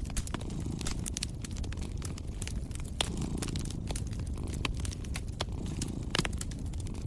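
Wood fire crackling, with irregular sharp pops and snaps, a louder one about three seconds in and another near six seconds, over a steady low rumble.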